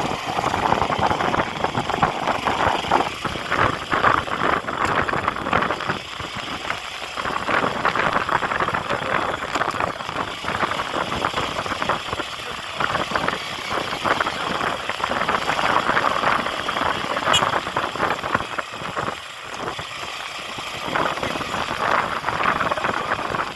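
Motor vehicle engine running steadily, its level dipping briefly twice.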